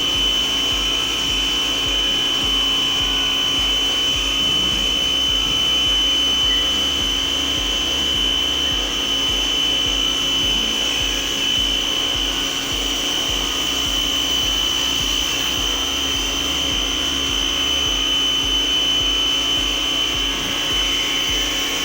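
Tecna electric pressure washer running steadily under load, its motor and pump giving a constant high-pitched whine over a steady machine hum.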